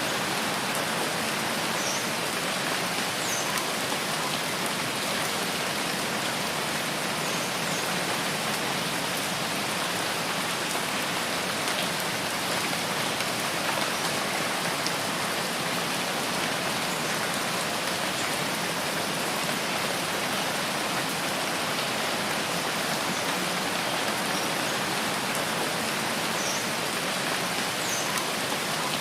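Steady rain in a rainforest: an even, continuous hiss of many drops.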